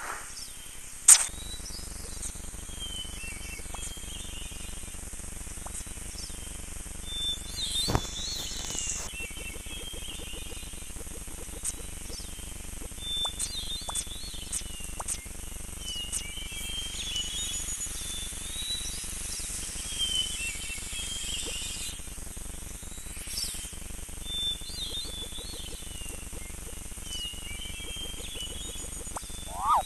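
Birds chirping in short repeated phrases every few seconds over a steady background ambience, with a sharp click about a second in and another about eight seconds in.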